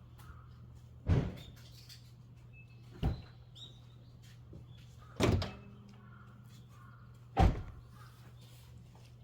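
Four loud knocks about two seconds apart, over a steady low hum.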